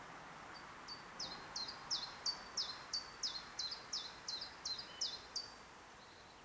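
A songbird singing a run of about fifteen quick, high repeated notes, each dropping in pitch, roughly three a second, over a faint steady hiss.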